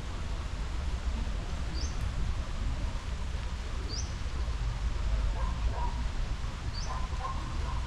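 A small bird giving a short, high, rising chirp three times, a couple of seconds apart, over a steady low street rumble.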